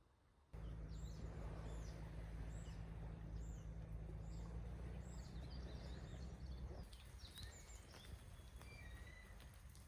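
Birds calling outdoors, a short arched chirp repeated roughly every half second, over a steady low rumble that drops away about seven seconds in. It all starts abruptly about half a second in, after near silence.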